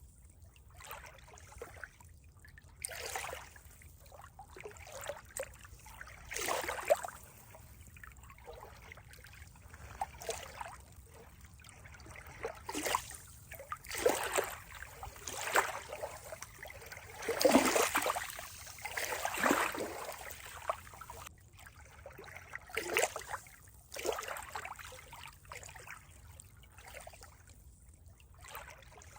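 Water trickling and splashing in uneven bursts over a low steady hiss, the loudest splashes coming a little past the middle.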